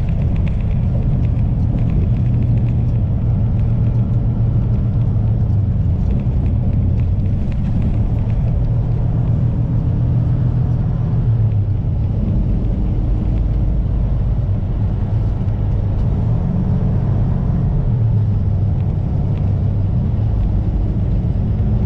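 Semi-truck diesel engine and road noise while driving at speed: a steady low drone whose pitch shifts slightly a few times as engine speed changes.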